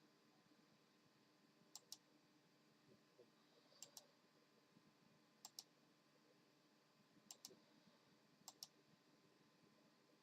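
Faint sharp clicks in pairs, five pairs spaced roughly every one and a half to two seconds, like a key or button being pressed and released, over quiet room tone.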